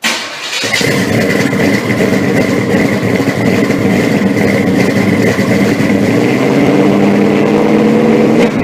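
Pontiac 389 V8 with Tri-Power carburettors idling steadily.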